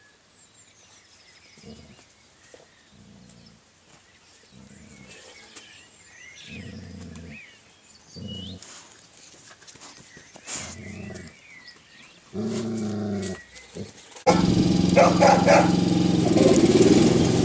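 A dog growling and whining in a series of short calls, roughly one a second, the last and loudest lasting about a second; faint high chirps sound above them. About fourteen seconds in it cuts suddenly to a much louder steady mechanical hum.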